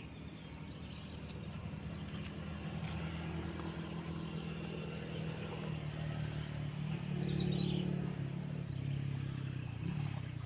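A motor vehicle's engine humming as it passes, growing louder to a peak about eight seconds in and then fading away near the end. A short falling chirp sounds about seven seconds in.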